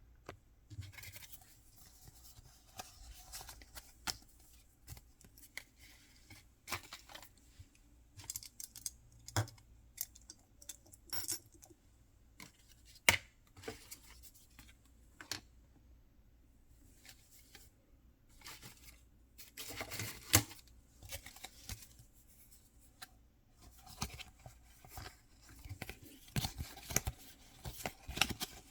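Mystery-box packaging being torn open and handled: scattered crinkles, rustles and small clicks. There is a longer tearing rustle about twenty seconds in and another near the end.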